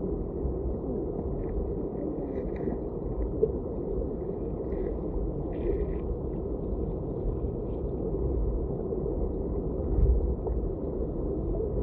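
Muffled, steady rush and rumble of flowing river water, with faint gurgles and small ticks, and a low bump about ten seconds in.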